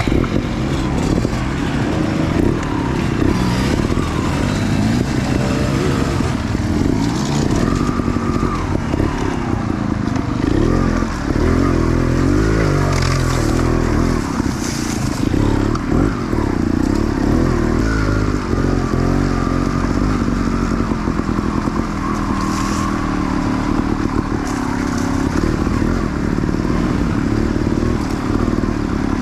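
Enduro dirt bike engine on an off-road ride, its revs rising and falling continually as the throttle is worked, with brief rushes of noise now and then.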